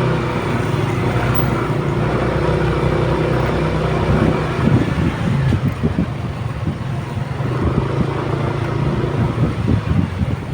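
Motorcycle engine running steadily while being ridden, its note holding for the first few seconds, then breaking into an uneven low rumble around the middle and again near the end.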